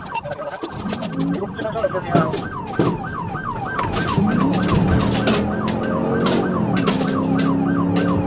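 Police car siren in fast yelp mode: rapid wails, each sweeping down in pitch, about three to four a second, over the steady hum of the pursuing vehicle.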